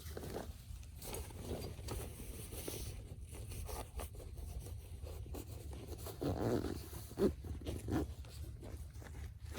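Close handling noises: rustling and scraping, with a louder scratchy stretch about six seconds in and a sharp knock just after.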